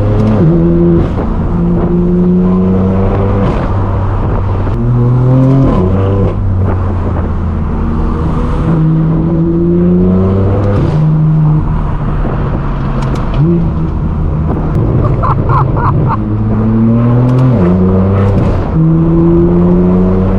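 Straight-piped BMW M4 F82 (AWE non-resonated track exhaust) pulling through the gears: its engine note climbs slowly in each gear and drops sharply at each upshift, about five times.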